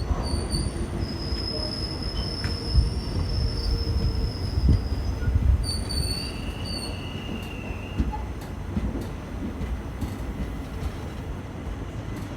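Passenger train running on the rails: a steady low rumble with occasional knocks, and high-pitched wheel squeal for about the first half, with a shorter, lower squeal around the middle.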